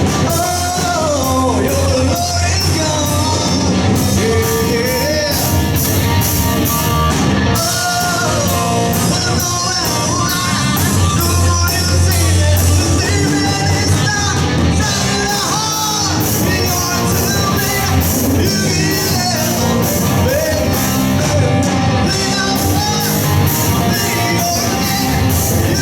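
Live rock band playing a rock song: a steady drum beat with cymbals, bass and electric guitar, and a melody line bending over the top.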